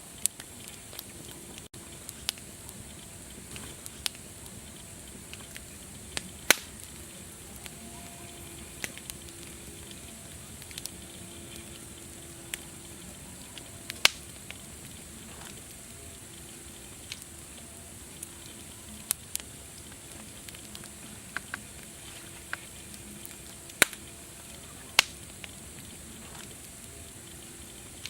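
Wood fire crackling: a steady low hiss with sharp pops at irregular intervals, a few of them much louder than the rest.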